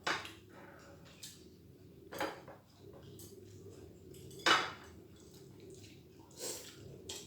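Cutlery and dishes clinking during a meal: half a dozen separate clinks and knocks of utensils on plates and bowls, the loudest about four and a half seconds in.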